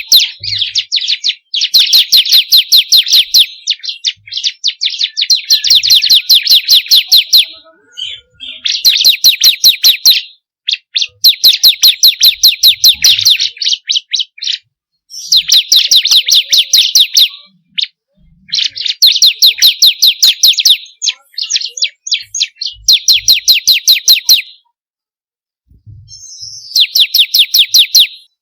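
Bar-winged prinia (ciblek) song: rapid, sharp, high chip notes at about ten a second, delivered in bursts of one to two seconds with short pauses between them.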